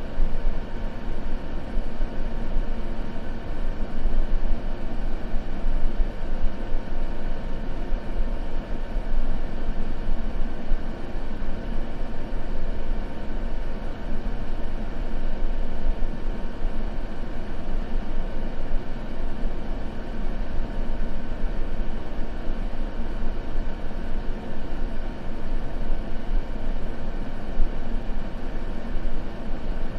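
Continuous white-noise sleep ambience: a steady, even noise that is heaviest in the low end, with faint steady hums running through it.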